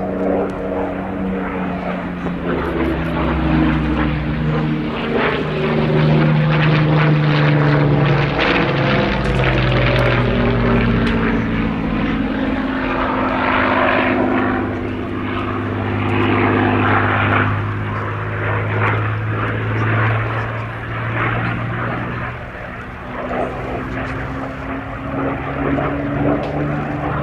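Rolls-Royce Merlin V12 piston engine of a WWII propeller fighter flying a display. The engine note sweeps down and back up in pitch as the aircraft passes and manoeuvres, loudest in the first third.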